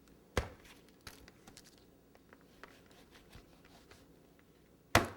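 Knife carving a chilled layer cake: faint cutting and scraping sounds, with two sharp knocks, one about half a second in and one near the end.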